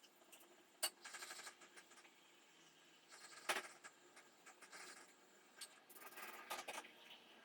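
Quiet handling noises: a few short scrapes and rustles, with two sharp clicks, one about a second in and one about halfway through.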